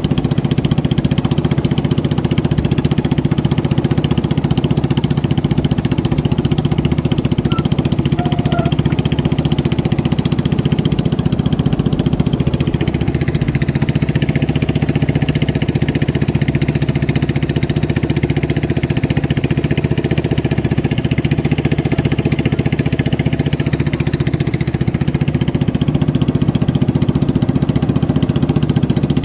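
Racing motorboat engine running steadily.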